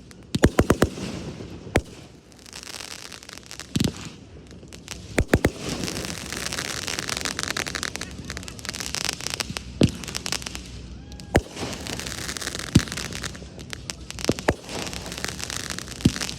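Fireworks display: sharp shell bursts, a quick cluster near the start and then single bangs every second or two. Long stretches of dense crackling run between them.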